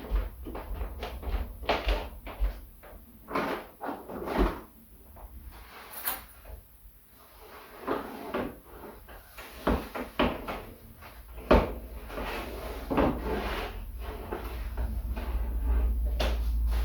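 A series of irregular knocks and clatters, like cupboards, drawers or household things being handled, with a low rumble growing toward the end.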